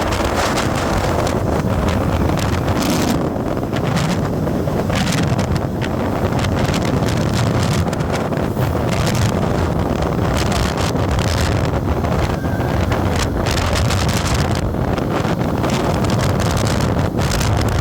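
Steady engine and road noise from a moving vehicle, with wind buffeting the microphone.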